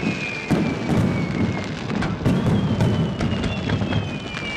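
Fireworks display: aerial shells bursting in a run of sharp bangs over a dense crackle.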